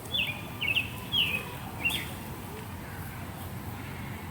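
A bird calling four times in quick succession, each a short, high, falling note, over about the first two seconds. After that only faint outdoor background remains.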